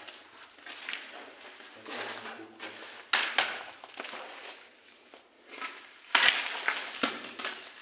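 Footsteps crunching over debris on a floor, with sharp cracks about three seconds in and again about six seconds in, the loudest near six seconds.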